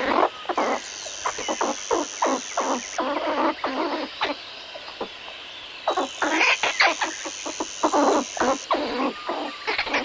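Squirrel chattering: rapid runs of short, sharp chucks, with a steady high-pitched whine underneath for a couple of seconds, twice.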